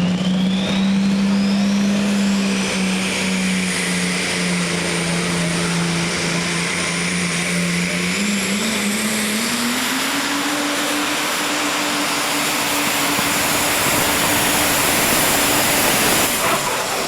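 A diesel pulling engine running hard under load, with a high whistle that climbs over the first couple of seconds and then holds. The engine pitch rises about eight to ten seconds in and stays up, and the engine lets off right at the end.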